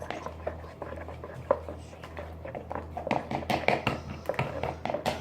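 Freshly mixed slime being squeezed and worked by hand, giving irregular wet, sticky clicks and squelches that come thicker and faster in the second half, over a steady low hum.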